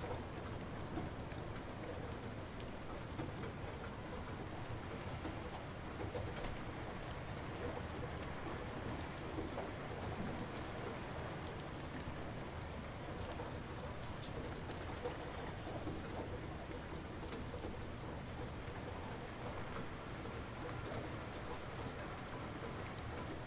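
Light rain falling steadily, with scattered drops pattering on a surface.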